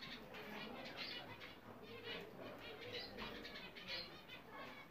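English budgerigars warbling and chirping, a continuous run of short chirps.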